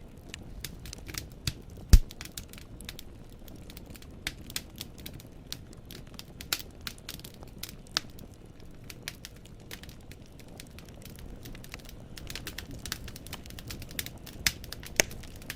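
Wood fire in a fireplace crackling, logs snapping and popping irregularly over a low steady rumble of flame, with one louder pop about two seconds in.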